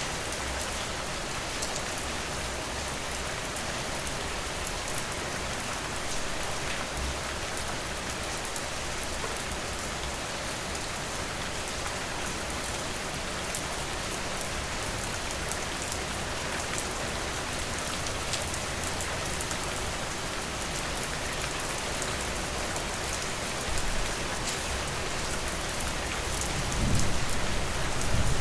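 Steady rain falling, an even hiss with many small drop ticks. A low rumble swells near the end.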